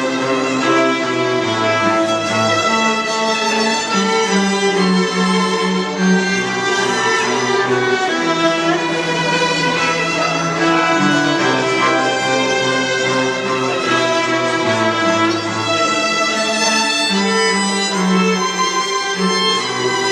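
String quartet playing live: violins carry sustained melody notes over a moving cello bass line.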